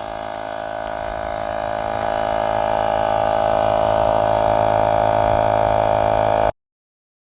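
Small electric tire pump running with a steady buzzing hum, growing gradually louder as it inflates a motorbike tire, then cutting off abruptly near the end.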